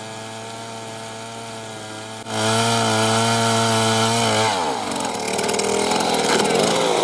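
An engine-driven wood-cutting machine running at a steady pitch. It gets much louder a little over two seconds in, then its pitch drops at about four and a half seconds as it bites into wood, and a rough sawing, grinding sound takes over.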